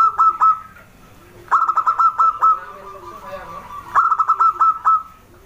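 Zebra dove (perkutut) calling: three quick runs of short, rapid cooing notes, each run lasting about a second, with a pause of a second or two between runs.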